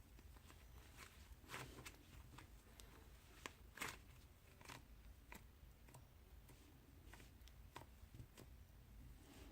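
Near silence: room tone with a faint low hum and a few soft, scattered clicks and taps, the clearest about one and a half seconds and about four seconds in.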